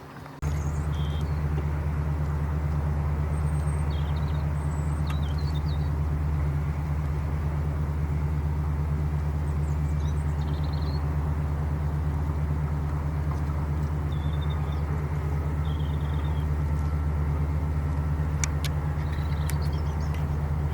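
A steady low engine hum, typical of a vehicle idling close by, starting suddenly about half a second in. Short faint high bird chirps come now and then over it, with two sharp clicks near the end.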